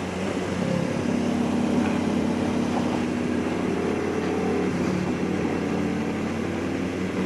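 Motorcycle engine running at a steady riding speed over a constant rush of noise, its pitch rising slightly in the middle and then settling.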